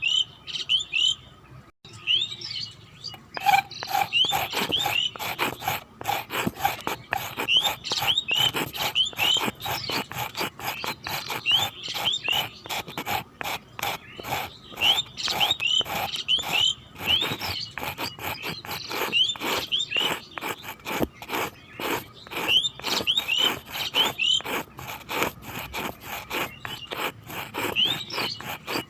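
Small birds chirping again and again over a fast, continuous scratchy clicking, with a short lull about two seconds in.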